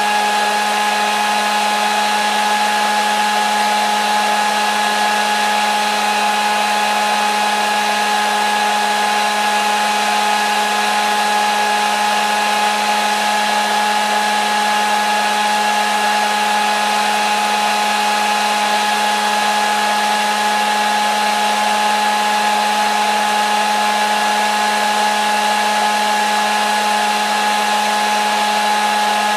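Hair dryer running steadily: an even rush of blown air with a constant motor whine that never changes speed.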